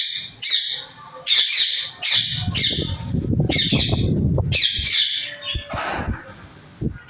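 Parrots squawking in loud, harsh, repeated calls, about two a second with short gaps. A low rustling rumble runs under the calls for a couple of seconds in the middle.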